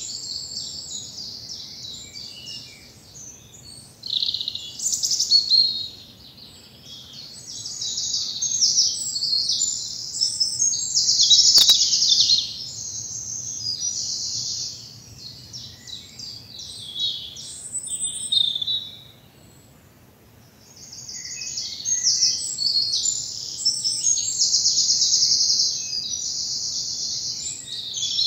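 Woodland songbirds singing in an early-morning spring chorus: high, fast trilling phrases, overlapping almost without a break, with a lull of about two seconds a little past the middle.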